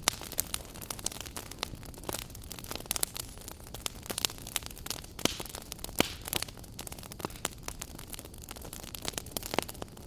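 Wood fire crackling in a fireplace: irregular sharp pops and snaps over a steady low hiss, with one louder pop about six seconds in.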